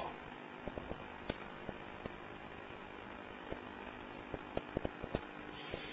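Faint steady hiss of refrigerant gas escaping from the end of the charging hose as air is purged from the line, with a few light clicks of handling.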